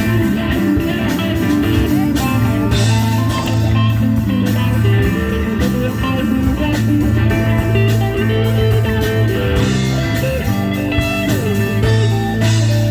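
Rock band playing live, an electric guitar leading over a steady bass line, in a bluesy rock style.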